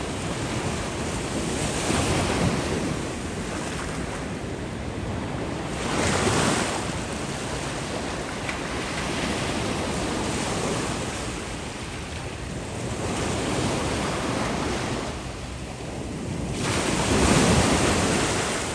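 Ocean surf: a continuous wash of waves with several breakers swelling up and falling back every few seconds, the loudest one near the end.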